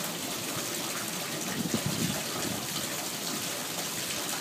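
Water gushing steadily through a house gutter drain that empties toward the basement, with no rain falling: the owner takes it for a hose running full force into the gutter from the roof.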